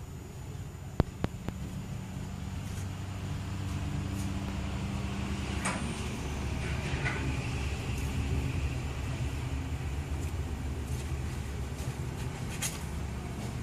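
Steady low mechanical rumble, like a running engine or motor, with a few sharp clicks about a second in.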